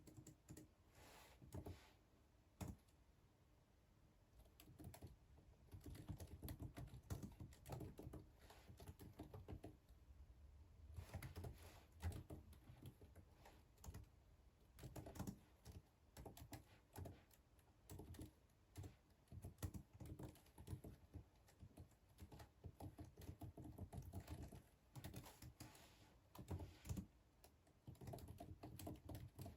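Faint typing on a computer keyboard in quick runs of key clicks, pausing briefly now and then.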